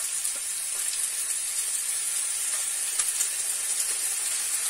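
Soaked soy meat chunks sizzling in a hot frying pan as they are tipped in from a steel pot: a steady frying hiss with faint small crackles.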